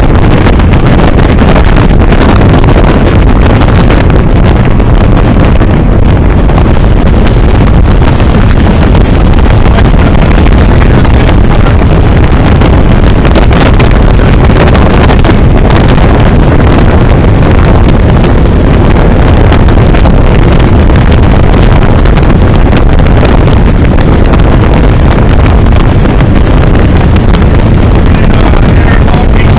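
Motorboat under way with its engine running, heavily overlaid by steady wind buffeting the microphone.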